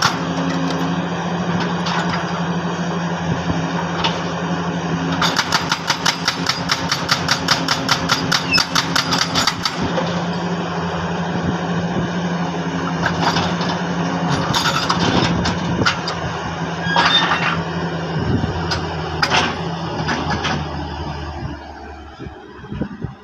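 Jackhammer chiselling hard rock: a run of rapid, even hammer blows for about four seconds, then scattered single knocks, over the steady drone of an engine. The engine note drops and fades away near the end.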